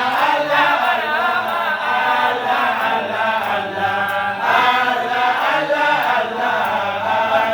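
A group of voices chanting an Arabic devotional praise poem together in a slow, drawn-out melody, the singing unbroken.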